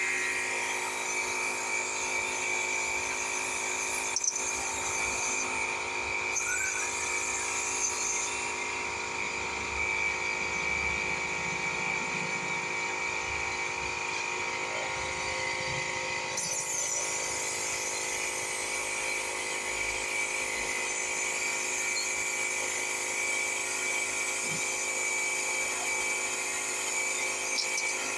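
Small electric air compressor running steadily, inflating the wood chipper's tire, with a constant whining hum.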